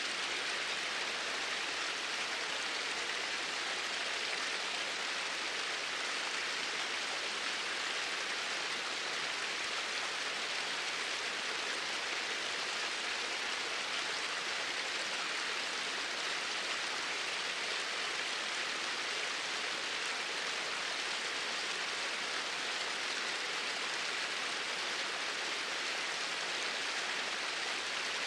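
Steady flowing water, an even rushing hiss that does not change.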